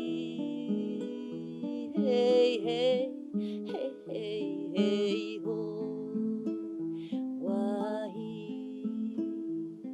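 Acoustic guitar picked slowly in a gentle repeating pattern, with a wordless melody line over it in three short wavering phrases that slide up in pitch.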